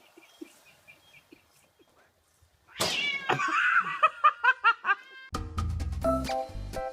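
Quiet at first, then a cat meows about three seconds in and follows with a quick run of short calls. Background music with a steady beat starts about five seconds in.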